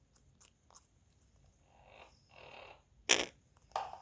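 Coins and small plastic boxes being handled by a quaker parrot: light ticks and a soft scraping, then two sharp knocks less than a second apart near the end.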